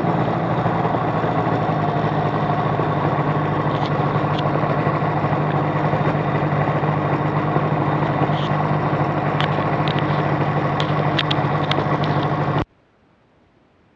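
Liquid-cooled two-stroke aircraft engine idling steadily just after starting, with a few light clicks in the second half. Near the end the sound cuts off suddenly to near silence: the recording's audio is being switched over, not the engine stopping.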